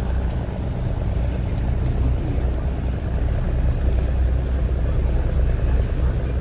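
River tourist boat's engine running steadily while under way: a low drone with a rushing hiss over it.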